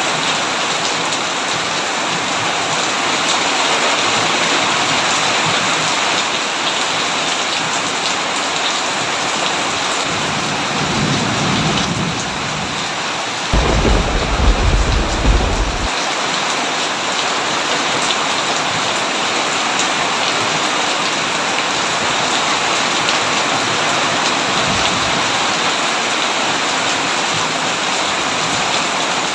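Heavy rain falling steadily on a tin roof. About ten seconds in, a low thunder rumble builds and breaks into a loud, deep clap lasting a couple of seconds, then fades back into the rain.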